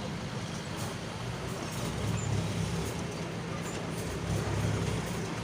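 Heavy diesel truck engine running with a deep, steady exhaust note, swelling slightly twice; the engine is on its stock tune, not remapped.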